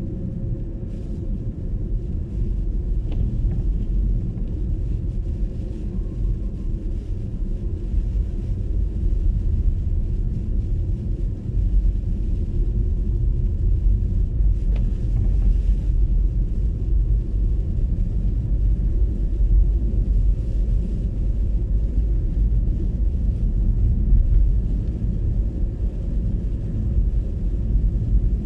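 MG ZS EV electric car driving on a snowy road: steady low tyre and road rumble with no engine note.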